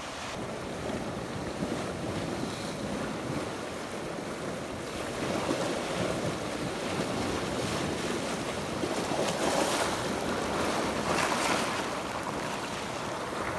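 Sea surf breaking and washing on the shore with wind buffeting the microphone, swelling louder for several seconds in the middle.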